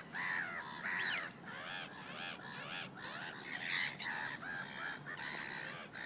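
Birds calling close by: a busy series of short calls that rise and fall in pitch, several a second, overlapping one another.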